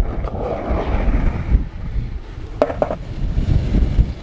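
Strong wind buffeting the camera's microphone: a heavy, gusting low rumble, with a brief sharper sound about two and a half seconds in.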